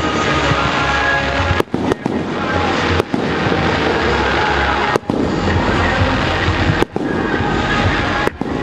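Aerial fireworks display going off continuously: dense overlapping booms and crackle, with the sound cutting out briefly about six times.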